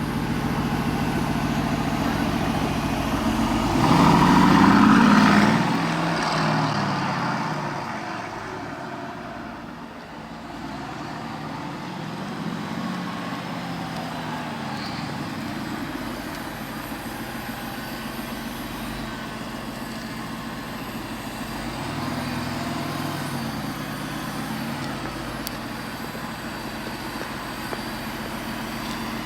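Mercedes-AMG GT C's twin-turbo V8 running. It swells louder about four seconds in, rising and then falling in pitch, then settles into a steadier, quieter run with gentle rises and falls.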